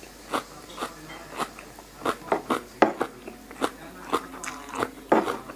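Crunchy, wet chewing of a mouthful of lettuce-wrapped pork sausage salad: irregular short crunches and mouth clicks, a few a second.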